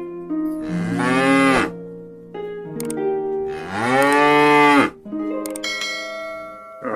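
Cattle mooing twice, each moo about a second long and arching up then down in pitch, over background music.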